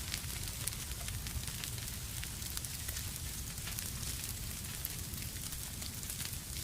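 Wood fire crackling in a fireplace: a steady hiss and low rumble, with many small, sharp pops scattered throughout.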